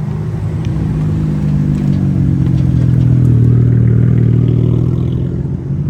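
Car engine running steadily at a low, even speed, growing slightly louder in the middle.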